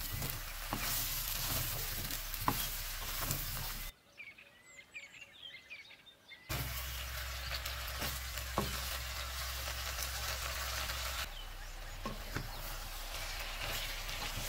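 Brinjal and potato pieces sizzling in hot oil in a pan, stirred with a wooden spatula that knocks against the pan now and then. The sizzle drops away for about two seconds a few seconds in, then comes back.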